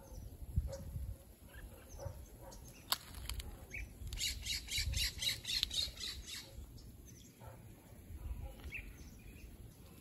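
A bird calling: scattered single chirps, then a rapid run of about a dozen high, clipped notes, about five a second, lasting some two seconds in the middle. A sharp click about three seconds in, over a low rumble.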